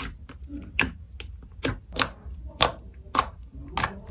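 Slime being pressed and squeezed by hand, making a string of sharp pops and clicks about every half second.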